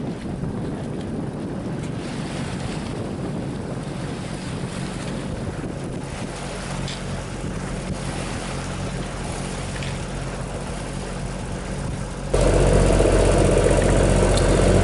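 Sailboat's inboard engine running steadily, mixed with water washing past the hull and wind buffeting the microphone. About twelve seconds in, the sound cuts abruptly to a louder, closer engine drone.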